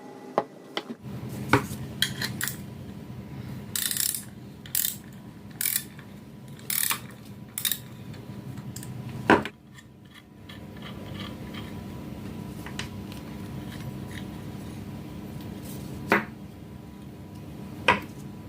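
Metal clinks and scrapes from a hand-operated can-seaming key and small tools being handled: a run of short scrapes and sharp clicks in the first half, two more clicks near the end, over a steady low hum.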